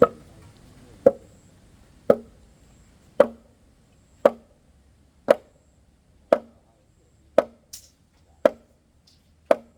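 Wood being chopped by hand: ten even, sharp strokes about one a second, with one lighter knock between two of them late on.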